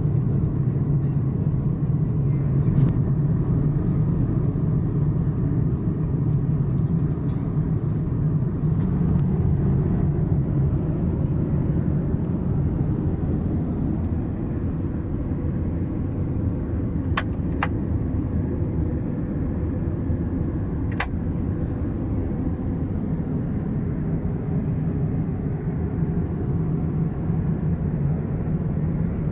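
Steady cabin noise of an Airbus A330-900neo airliner in flight: a constant low rumble and rush of air. A few faint, light clicks come about two-thirds of the way through.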